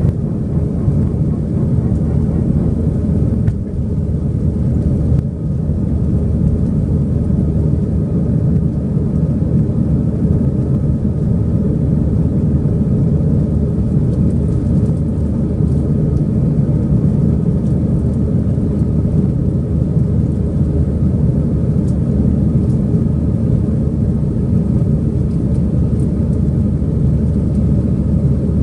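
Cabin noise inside an Airbus A320-200 airliner: a steady, loud low rumble of the engines and airflow, with faint steady tones above it.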